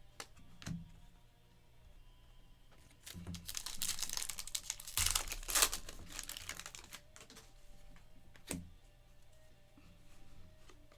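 Trading cards being handled and flipped through by hand, with a few light clicks and a spell of crinkly rustling in the middle.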